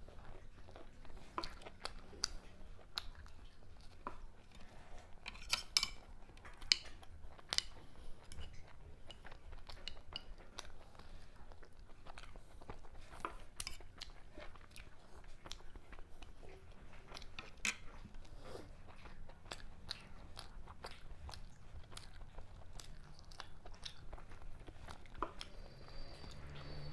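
Close-miked chewing and biting of toasted bread and chicken stew, with frequent irregular crunches and sharp mouth clicks.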